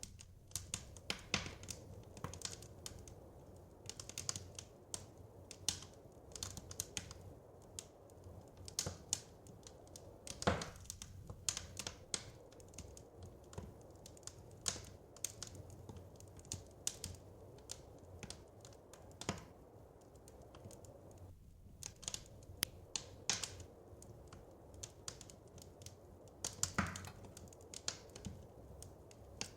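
Wood fire crackling in a fireplace: irregular snaps and pops, several a second, over a low steady hiss, with a few louder pops.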